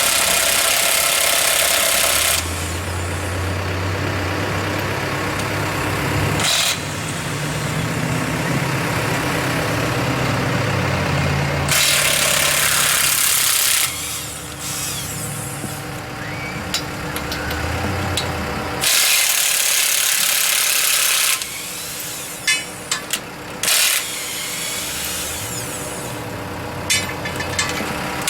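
Truck engines running and revving up and down, broken by several loud rushing bursts of noise about two seconds long.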